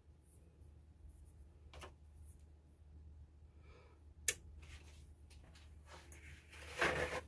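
Low steady hum with a few small handling clicks, the sharpest about four seconds in, and a brief rustle near the end.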